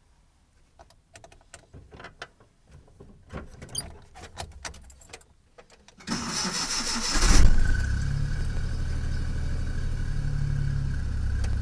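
Light clicking and rattling in the cab, then a car engine cranks on the starter for about a second, catches with a brief rise and settles into a steady idle. It is a cold start after the car has stood for a week, left idling to warm up.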